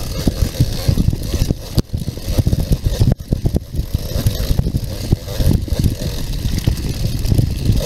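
Enduro dirt bike's engine revving hard and unevenly over rough trail, with quick throttle changes and a few sudden drops off the throttle, mixed with the rumble and knocks of the bike bouncing over rocks.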